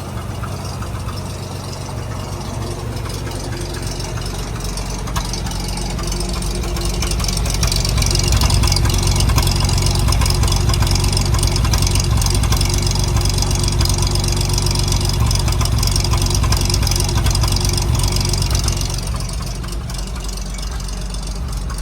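1931 Chevrolet pickup's inline six-cylinder engine running steadily at idle. It grows louder over a couple of seconds about a quarter of the way in, holds there, and settles back down near the end.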